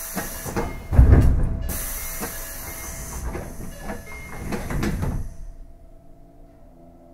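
A faster train passing at speed on the adjacent track, heard from inside a stopped train: a rushing noise with a run of heavy wheel thumps, loudest about a second in, dying away after about five seconds.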